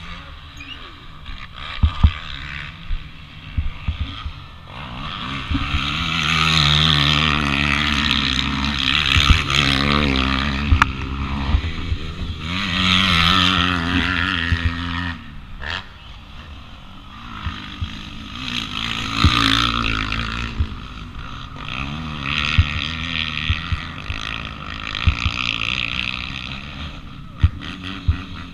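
Small single-cylinder four-stroke pit bike engine, a 2001 Yamaha TT-R125L, revving up and falling back again and again under racing load, cutting back sharply about halfway through, with scattered sharp knocks.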